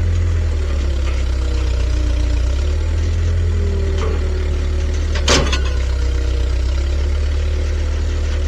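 Engine running steadily at idle, with one sharp metallic clank about five seconds in.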